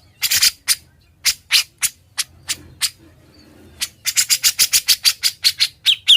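Grey-cheeked bulbul (cucak jenggot) in rapid harsh chattering "ngebren" song, about six to seven notes a second, in two runs with a brief pause in the middle. Near the end the notes take on a sharp whistled edge.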